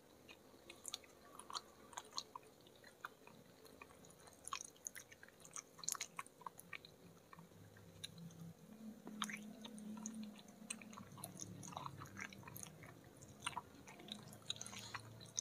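Close-miked mouth sounds of soft milk pudding being chewed: faint, scattered wet clicks and smacks. There is a low hum from about the middle on.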